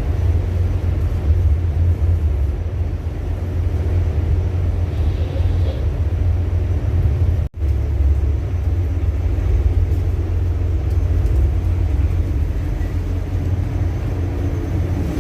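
Ship's engine running with a steady, deep rumble that breaks off for an instant about halfway.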